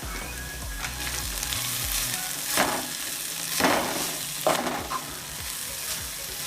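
Softened onions and spices frying in oil in a pan, sizzling steadily while being stirred, with a spoon scraping the pan three times about two and a half, three and a half and four and a half seconds in.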